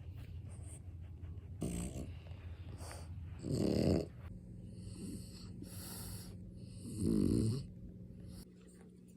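A dog snoring, with three louder snores a few seconds apart.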